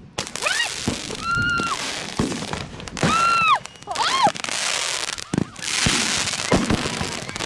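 Deer Hunter firework cake, tipped off its base, firing shots sideways along the ground: a steady crackling hiss with several sharp bangs. Over it come four short high shrieks, each rising then falling, in the first four seconds.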